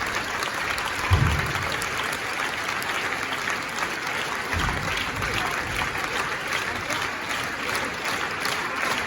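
Theatre audience applauding steadily, a dense patter of many hands clapping, with two brief low-pitched swells about a second in and about halfway through.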